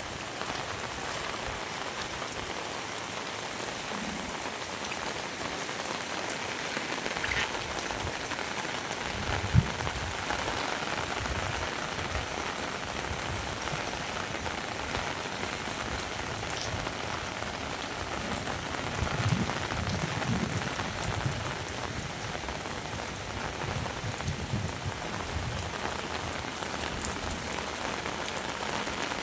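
Heavy rain falling steadily, a dense hiss of drops. A single sharp thump comes about ten seconds in, and softer low thuds come now and then.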